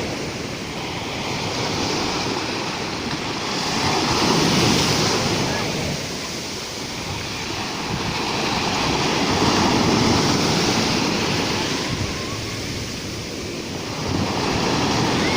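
Rough Black Sea surf, with waves swelling and breaking roughly every five to six seconds, and wind on the microphone.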